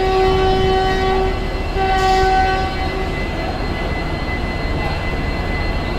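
Indian Railways locomotive horn giving a long steady blast that stops about a second in, then a second, shorter blast, the signal of the train setting off. A steady low rumble runs under it and carries on after the horn.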